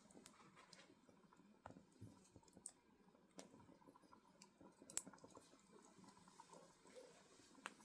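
Firewood burning, quiet and crackling with scattered sharp pops, the loudest about five seconds in.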